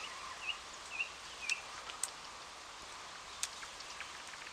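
A bird chirps three times, short calls about half a second apart, over a steady outdoor hiss. Two sharp clicks follow, then a short fast rattle near the end.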